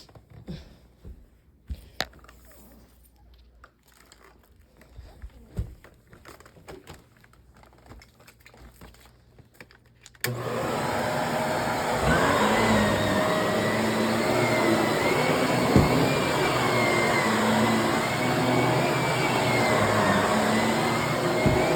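A few faint clicks and handling knocks, then about halfway through a Shark vacuum cleaner switches on abruptly and runs steadily at full power, its motor giving a wavering high whine over the rush of suction.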